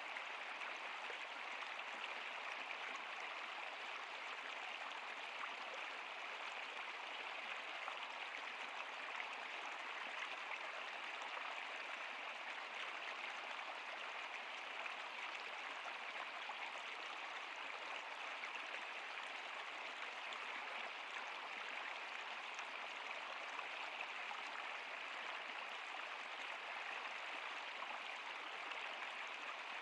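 Stream water running steadily, an even rushing with little low rumble.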